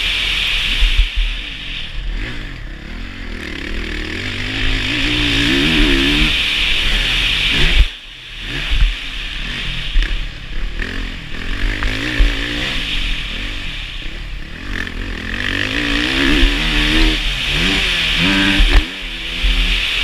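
Dirt bike engine revving up and down as the throttle is opened and closed, its pitch rising and falling again and again. The sound drops out briefly about eight seconds in, then picks up again.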